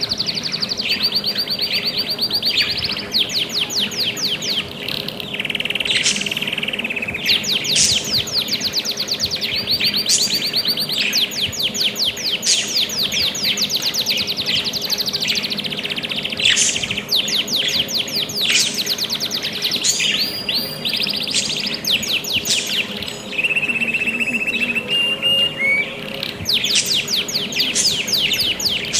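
Budgerigars chirping: long runs of short, high chirps repeated rapidly, one run after another without pause.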